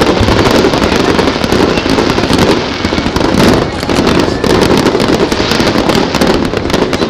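Aerial fireworks shells bursting in a dense, loud barrage, many sharp reports following one another so closely that they merge into a continuous din.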